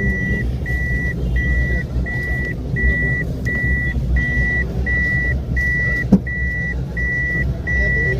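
A high electronic beep repeating evenly, about two a second, over the low rumble of a vehicle in traffic. A single sharp click about six seconds in.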